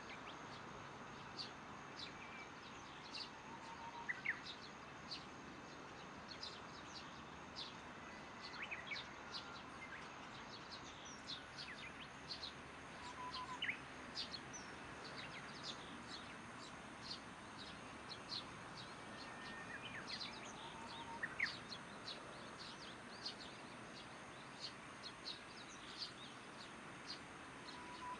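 Birds chirping: many short, high chirps, several a second, mixed with a few lower whistled notes. Under them runs a faint, steady high drone of insects.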